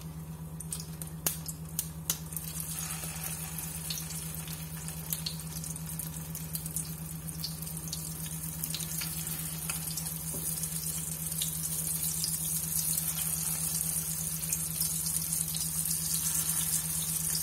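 Chicken shami kababs sizzling in hot oil in a frying pan, with scattered crackles and pops, the sizzle getting louder and fuller as more patties are laid in. A steady low hum sits underneath.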